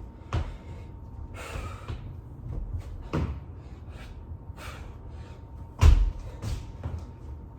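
Thumps of a body coming down on the floor during burpees, about three seconds apart, the third the loudest, with breathy hissing between them.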